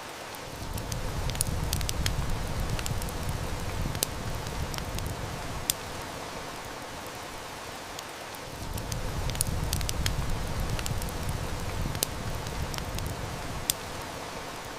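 Steady hiss of heavy rain with sharp crackles and snaps from a wood fire, scattered through it as the loudest sounds. A low rumble swells in twice, for several seconds each time.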